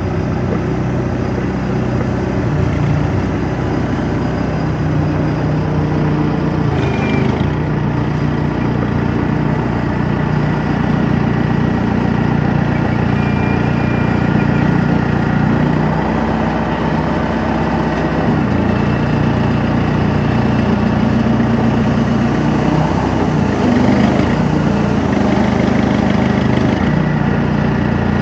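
A vehicle engine running steadily at a low, even speed, loud and close throughout.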